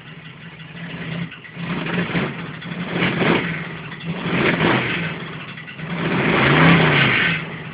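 Small-block Ford V8 in a 1969 Mustang revved four times from idle on its first start after installation, the last rev held longest before it settles back to idle.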